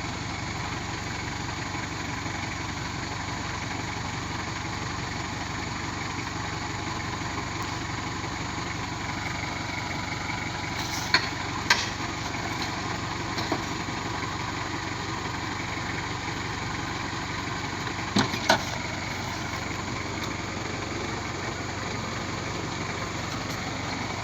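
Truck engine idling steadily, with a few short sharp knocks or clanks about halfway through and again later.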